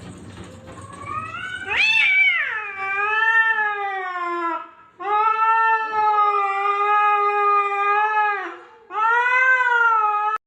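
A cat yowling in three long, drawn-out calls, the last cut off abruptly.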